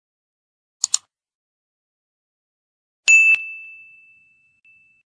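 Two quick clicks about a second in, then a single bright bell-like ding about three seconds in that rings and fades away over about a second and a half.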